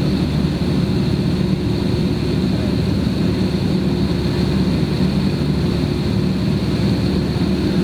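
Steady cabin noise inside a JetBlue Airbus airliner: jet engine hum and rushing air, with a few held tones running through it.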